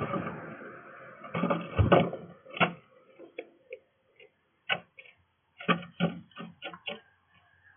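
Irregular sharp taps and knocks at a bird feeder, one at a time or in quick clusters of a few, as birds land on the feeder and peck at the seed.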